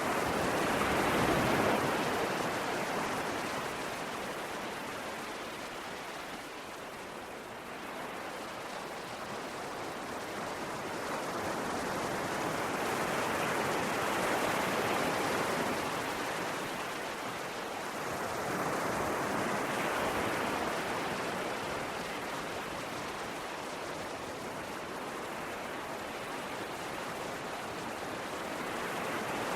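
Sea waves on a shore: a steady rushing wash that swells and eases every several seconds.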